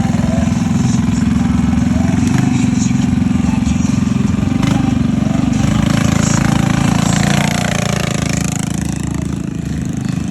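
Minibike engine running loud and steady; about three-quarters of the way through the sound eases off and its pitch falls.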